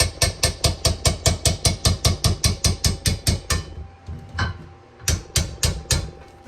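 Rapid hammer blows on steel, about six a second with a ringing metallic tone, in a long run that stops, one single blow, then a second shorter run.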